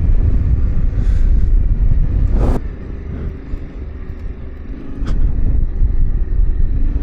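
Yamaha Ténéré 700's parallel-twin engine running under way on a rough dirt trail, with a heavy low rumble. A sharp knock comes about two and a half seconds in, and a fainter one about two seconds later. The sound then drops for a few seconds before building again.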